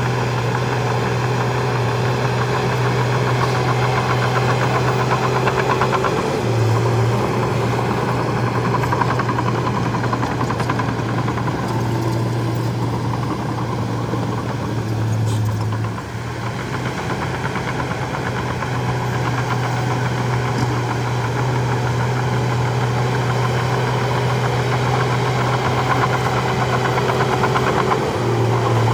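Bulldozer's heavy diesel engine running steadily with a strong low hum, dipping briefly in level about halfway through.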